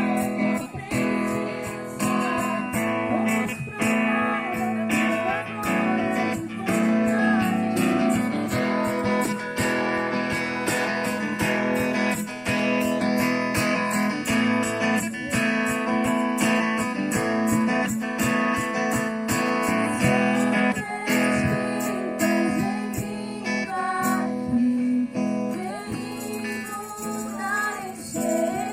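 Worship music led by strummed guitar, with a steady strumming rhythm and some singing.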